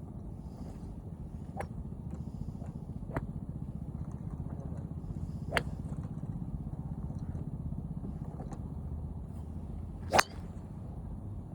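Golf iron striking a ball on a driving range: one sharp crack about ten seconds in, with fainter clicks of strikes before it. Under it runs a steady low rumble.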